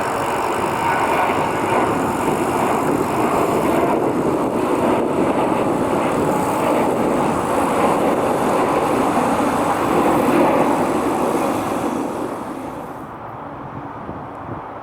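Loud, steady jet airliner engine noise, fading away about three seconds before the end.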